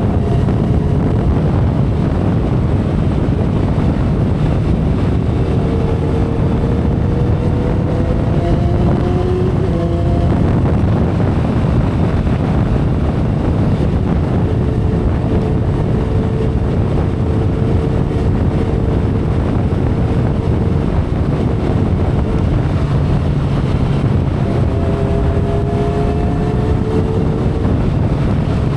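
2012 Kawasaki Ninja ZX-10R inline-four engine running at expressway speed, heard under heavy wind rush on the microphone. Its note climbs slowly a few times as the bike accelerates.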